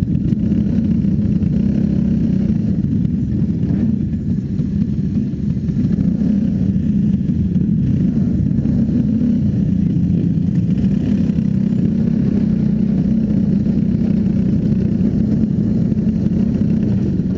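Clone-engine racing machines running at speed in a heat race, a steady mid-pitched engine drone that holds fairly even throughout.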